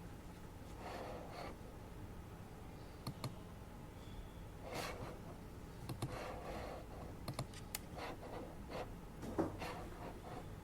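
Office desk work: a few scattered keyboard clicks and several short rustles of paper handling over the steady low hum of an air purifier.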